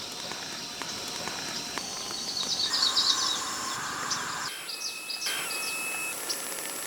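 Birds chirping in quick, short strokes over a steady outdoor background noise.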